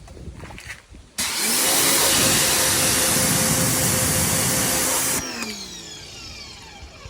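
Pressure washer triggered for about four seconds: its motor spins up with a loud spraying hiss, runs steadily, then the spray cuts off and the motor winds down with a falling whine.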